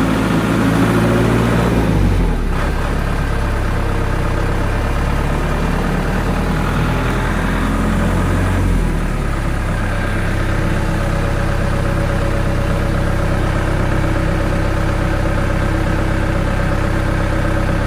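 Generator set's engine running steadily, its speed shifting about two seconds in and again around nine seconds in.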